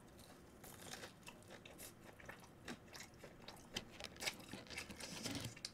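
A person chewing a crispy battered fried pepper (Korean gochu-twigim), with faint, irregular crunches.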